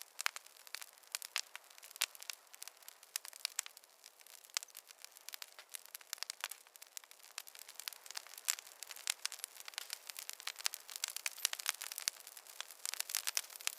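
Wood fire crackling in a fireplace: many sharp, irregular pops and snaps over a soft hiss, getting busier in the last few seconds.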